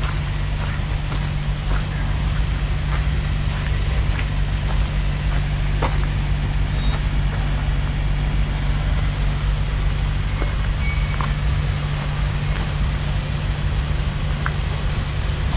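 A motor vehicle's engine, or a similar machine, running steadily with a low, unchanging hum, with a few scattered light clicks over it.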